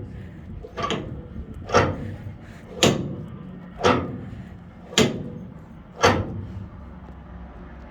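A series of six sharp knocks or bangs at an even pace, about one a second, which stop about six seconds in.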